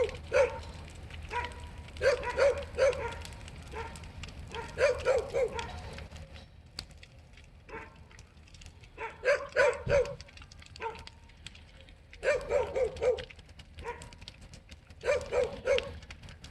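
A dog barking in quick volleys of three to five barks, repeated every two to three seconds.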